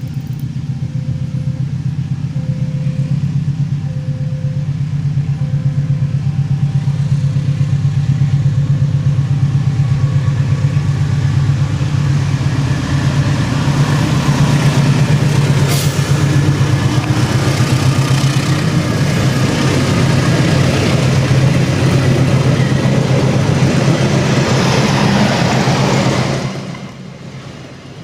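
Locomotive engine running hard as the train pulls away and passes, with a fast, even throb that grows louder, then drops away suddenly near the end. A short tone repeats about once a second during the first third.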